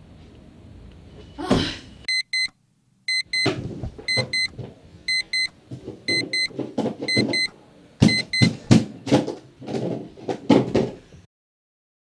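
An electronic alarm clock beeping in quick double beeps, about once a second, while a hand slaps repeatedly at the clock and the tabletop in loud, irregular thumps. A short rising whoosh comes just before the beeping, and everything cuts off abruptly near the end.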